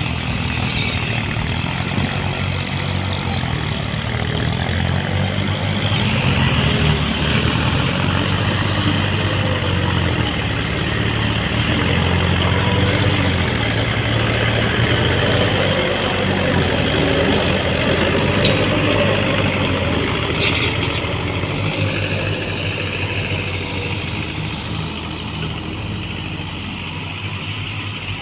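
Tractor diesel engine running steadily, getting louder about a quarter of the way in and fading near the end.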